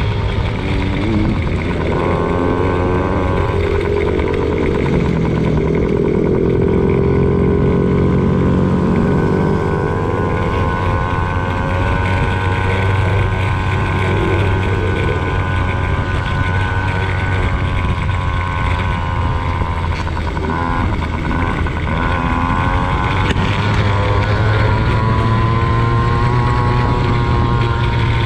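Motocross bike engine running hard, its pitch rising and falling repeatedly as the throttle opens and closes through the run.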